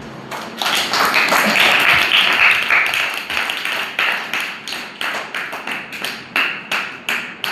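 Hands clapping: a dense patter of claps at first, thinning out to separate claps about three a second for the last few seconds.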